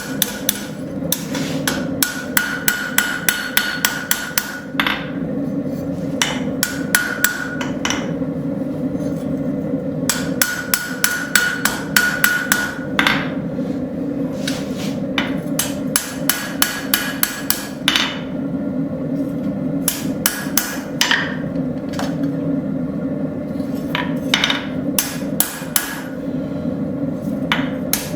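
Hammer lightly planishing a forged railroad spike blade on the anvil: quick runs of light taps, several a second, broken by short pauses, with some strikes leaving a brief metallic ring. A steady low hum runs underneath.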